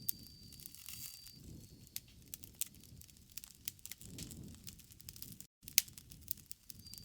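Bonfire crackling: irregular sharp pops and snaps of burning wood over a low rush of flames.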